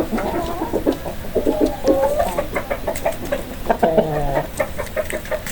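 Chickens clucking: a run of short, repeated clucks and calls.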